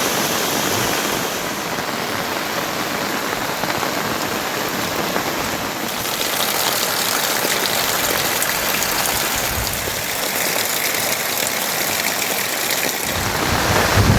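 Heavy monsoon rain falling in a steady hiss with fine pattering drops, and a brief low rumble near the end.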